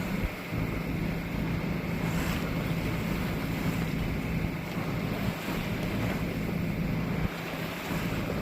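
Wind buffeting the microphone and waves washing against a sailboat under way in rough water, a steady rushing noise with a low steady hum underneath.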